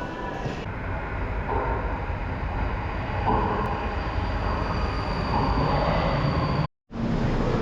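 Steady low rumbling noise of a moving vehicle, broken by a brief total silence near the end.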